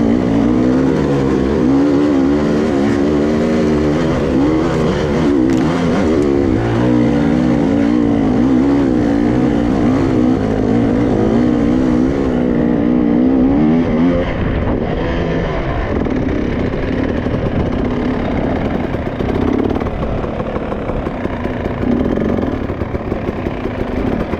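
Dirt bike engine revving, its pitch rising and falling again and again with the throttle, then settling to a lower, steadier note about halfway through.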